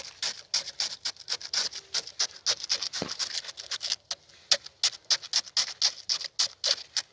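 Finnish candle log fire crackling with a dense run of sharp, irregular pops, several a second, as it is put out with snow.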